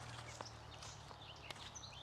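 Faint small-bird chirps scattered through, with two sharp clicks and a low steady hum underneath.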